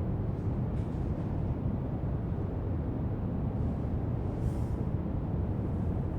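Steady brown noise, a deep even rushing hiss, with faint scratchy strokes of a marker on paper a few times over it, about a second in and again around four to five seconds in.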